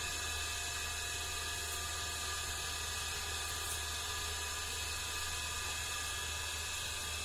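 A small electric motor running steadily, a constant hum with a high whine and no change in pitch.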